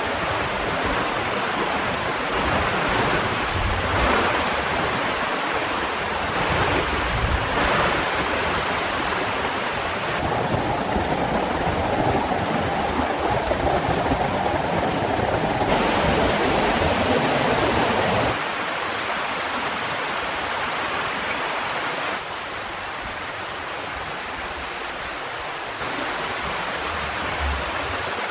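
Heavy rain falling, a steady loud hiss whose character changes abruptly several times where separate rain recordings are cut together.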